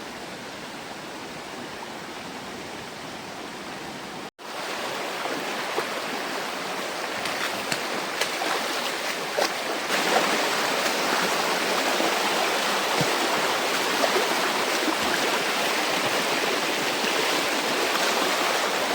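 Rushing water of a rocky jungle stream, a steady noise that cuts out abruptly about four seconds in and comes back louder, swelling again about halfway through.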